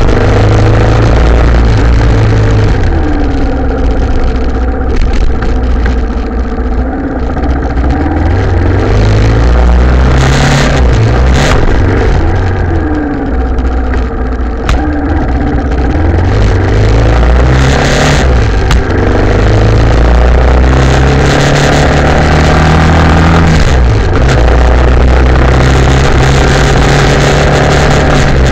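Italika TC250 motorcycle's single-cylinder engine running under way, its pitch falling and climbing again a couple of times and stepping up through the gears. A few sharp knocks are heard about ten seconds in and again around eighteen seconds.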